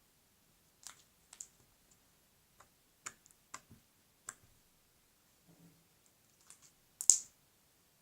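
Jiggly slime being squished and pulled apart by hand, giving scattered short, sharp clicks and pops, the loudest one near the end.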